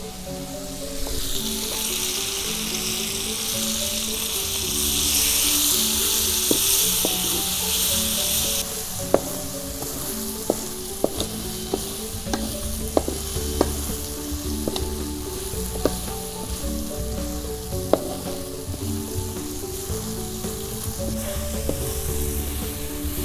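Spice paste frying in an aluminium wok: a loud sizzle for the first several seconds that cuts off suddenly. Then the metal spatula scrapes the wok and knocks against it in sharp clicks, over soft background music.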